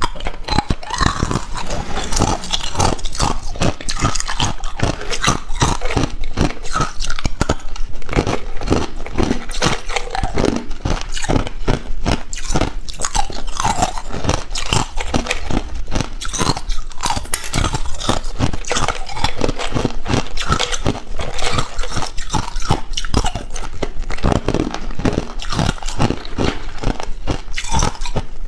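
Close-up crunching of hard ice being bitten and chewed: dense, irregular crisp cracks and crunches throughout.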